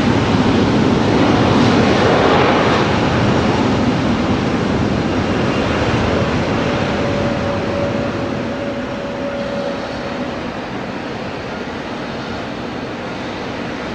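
Airliner engine noise, loud at first and fading steadily as the aircraft moves away.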